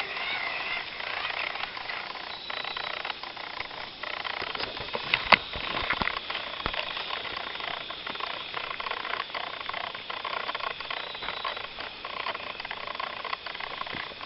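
Night-time rainforest chorus of insects and frogs: steady high-pitched buzzing and trilling, with scattered small clicks and one sharp click about five seconds in.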